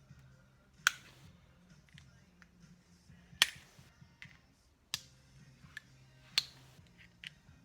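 Sharp metallic clicks from a tool working at the drive tang of a freshly fitted Heli-Coil thread insert, trying to snap it off. There are four loud clicks about a second and a half apart, with fainter ticks between them, and the tang has not broken.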